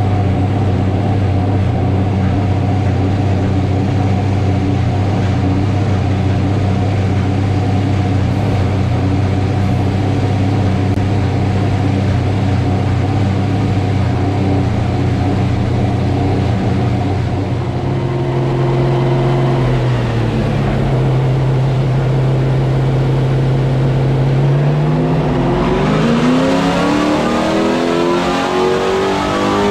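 Carbureted GM 604 crate small-block V8 in a late model race car idling steadily. Its note shifts about eighteen seconds in, and from about twenty-five seconds in the revs climb steadily in a wide-open-throttle chassis dyno pull, run with ignition timing advanced to 32 degrees total.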